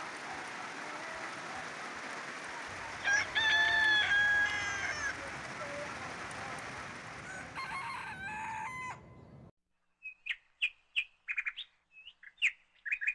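Steady rain falling on the farm's vegetation, with a rooster crowing once, a long call about three seconds in. The rain cuts off suddenly near the end, and a string of short high chirps follows.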